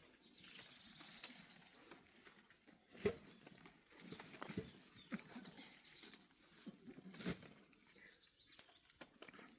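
Quiet outdoor sounds: scattered knocks and clicks, two louder knocks about three and seven seconds in, with faint high chirping.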